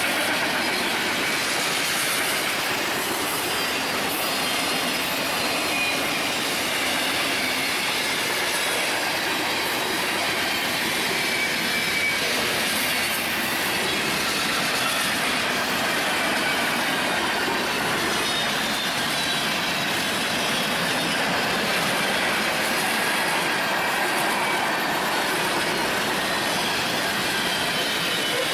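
Railroad cars rolling past on the track in a steady rumble and clatter, with faint high wheel squeals wavering on and off.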